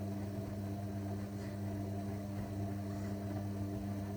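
Zanussi washing machine running with a steady low hum.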